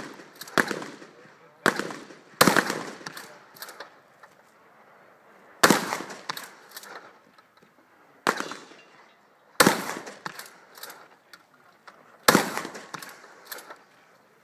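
Shotgun shots on a range, about six loud reports fired singly a second or a few seconds apart, each followed by a short echo and smaller pops.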